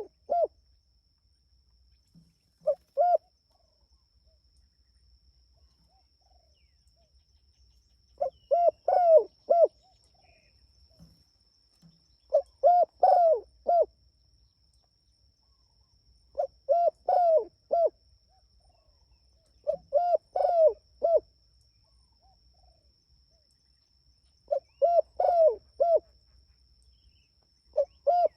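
Spotted dove (tekukur) cooing loudly: repeated phrases of several low cooing notes, one phrase every three to four seconds, with a longer pause near the start. The bird is calling to others of its kind.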